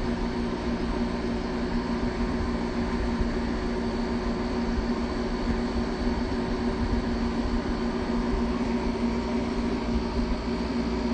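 Gold Star window air conditioner running: a steady fan rush with a constant compressor hum underneath, unchanging throughout.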